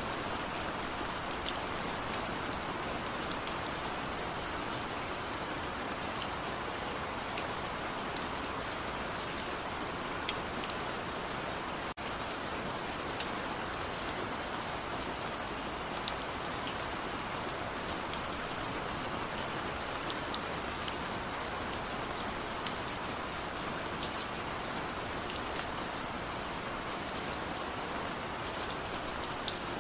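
Steady rain falling, an even hiss with many individual drops ticking sharply on a surface. It cuts out for an instant about twelve seconds in.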